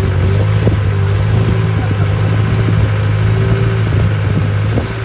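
Boat engine running steadily under way, a constant low drone with scattered short knocks.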